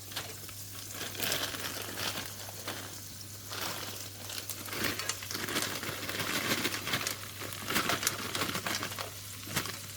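Frozen mixed vegetables being added to a fry pan of cooking ground beef: a bag crinkling and rustling, with the frozen pieces crackling and sizzling as they hit the hot pan. A steady low hum runs underneath.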